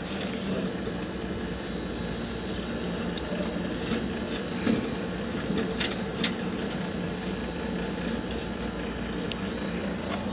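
A few light clicks and rustles of wiring being handled, over a steady mechanical hum.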